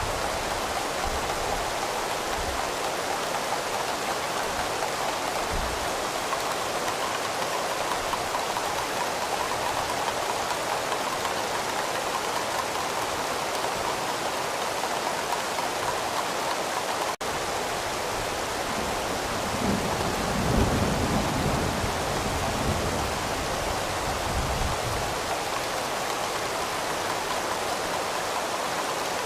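Steady heavy rain, with a low rumble of distant thunder rolling in about two-thirds of the way through.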